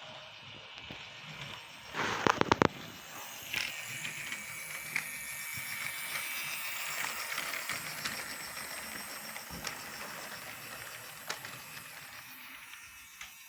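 Freight train running: a quick burst of clicks about two seconds in, then a steady hiss with a thin whine that builds over a few seconds and slowly fades away.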